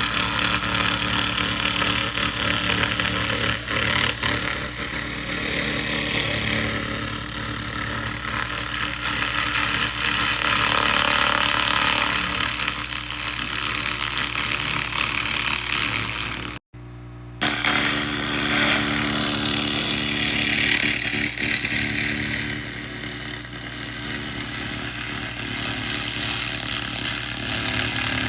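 SFX 2000 W laser rust remover running and ablating rust: a continuous buzzing hiss that swells and fades over a steady machine hum. It cuts out for a moment about two-thirds of the way through.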